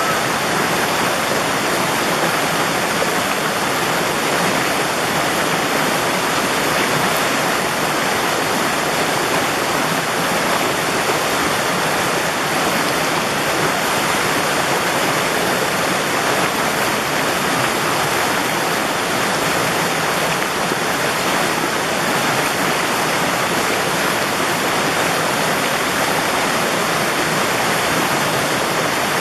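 Steady sound of a mountain valley stream's water flowing and splashing.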